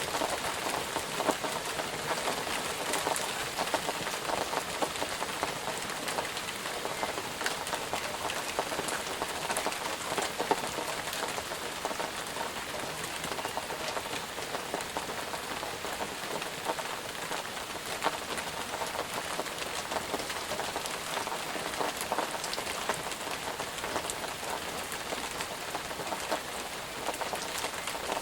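Steady rain falling on a surface, with many individual drops pattering as sharp small ticks.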